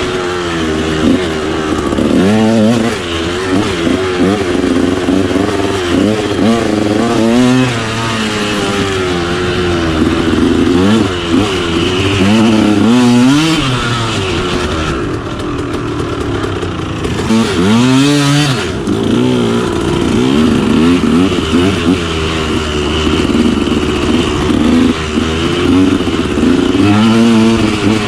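Two-stroke dirt bike engine (KTM 125SX) being ridden hard along a trail, revving up and dropping back again and again with throttle changes and gear shifts.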